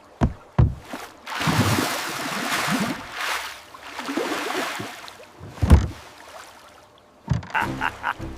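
Water rushing and splashing in surges, with a couple of dull thumps near the start and a louder thump just before the end of the splashing.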